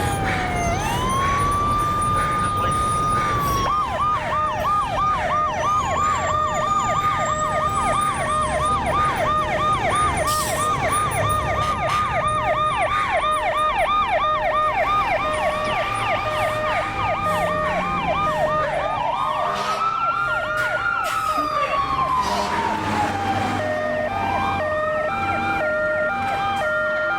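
Several emergency-vehicle sirens sounding at once: a slow rising-and-falling wail, a rapid yelp that runs from about four seconds in to around eighteen seconds, and a two-tone hi-lo alternating steadily, over a low rumble.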